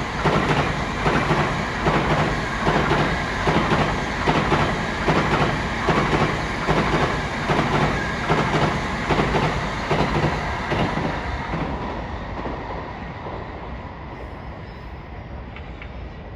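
Doctor Yellow, the 923-series Shinkansen inspection train, passing on the line: a loud rhythmic clatter of the wheels about twice a second, which fades away over the last few seconds as the train moves off.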